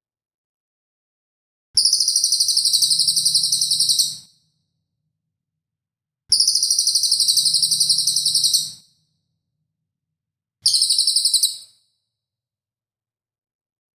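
Recorded songbird training phrases: three bursts of a rapid, sharp, high-pitched trill of quickly repeated notes, the first two about two and a half seconds each and the last about a second, with dead silence between them. These are the harsh 'tembakan' and 'besetan' phrases used to teach singing birds.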